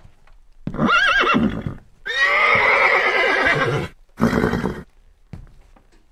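Horse neighing three times: a whinny with a wavering, shaking pitch about a second in, a longer neigh from about two seconds, and a short call just after four seconds.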